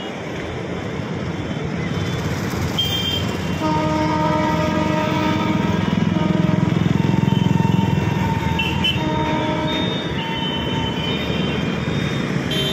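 Passenger train rumbling along the track, its horn sounding a steady chord for a couple of seconds about four seconds in. The rumble of the wheels is loudest just after the horn stops.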